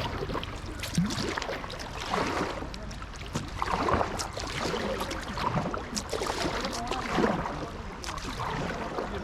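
Kayak paddle splashing and dripping in river water, in irregular strokes about every second or so, with sharp small knocks and a steady low rumble underneath.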